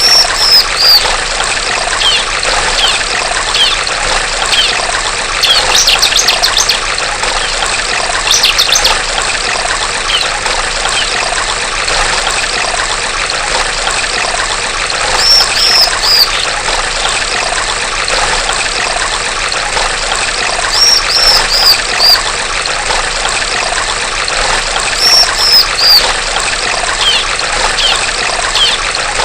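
Steady trickling of running stream water, with a female bar-winged prinia calling over it. The calls come as short groups of three or four high, falling notes, repeated several times, with bursts of fast chatter about 6 and 8 seconds in.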